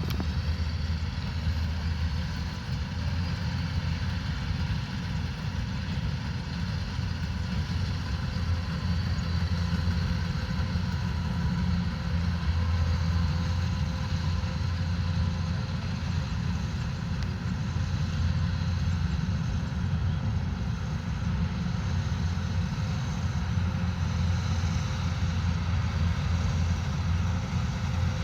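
Kubota DC105X combine harvester's diesel engine running steadily, a continuous low drone with a faint steady whine above it.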